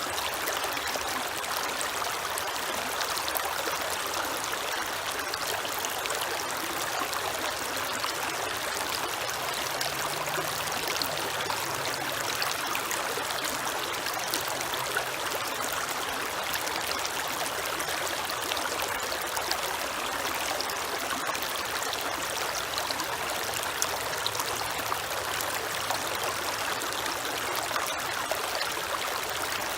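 Creek water running steadily over rocks, an even rushing trickle. A faint low hum sits underneath for part of the stretch.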